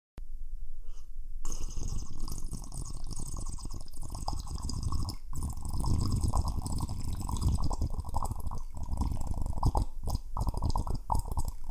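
Steady wet liquid sound with a fine crackling texture.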